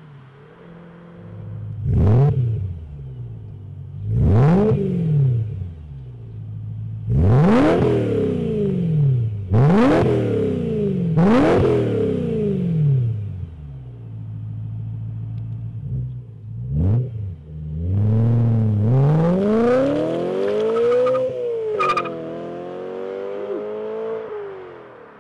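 BMW E92 M3's 4.0-litre V8 breathing through a stainless-steel aftermarket exhaust, idling and blipped sharply about five times, each rev climbing fast and dropping straight back to idle. Later comes a longer rev that builds for a few seconds before falling away, then another shorter one.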